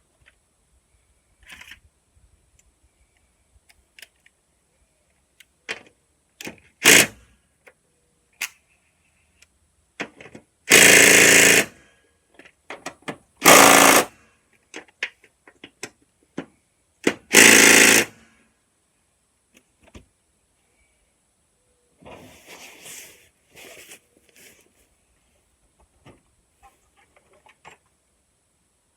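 Impact wrench run in three rattling bursts of about a second each, with a shorter burst before them and light clinks of tools and parts in between.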